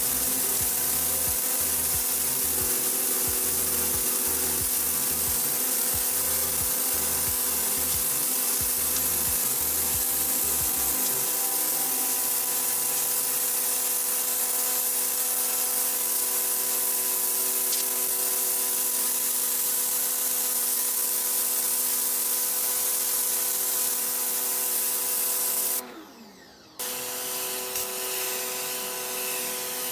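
Electric pressure washer running, its motor and pump humming steadily under the loud hiss of the high-pressure water spray. Near the end the motor winds down and stops for about a second, then starts again.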